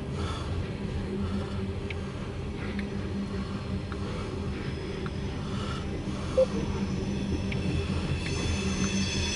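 Loaded CSX coal train's hopper cars rolling past, a steady rumble of wheels on rail with scattered light clicks, heard from inside a car's cabin. There is a single sharp knock about six seconds in, and near the end a high-pitched wheel squeal starts up.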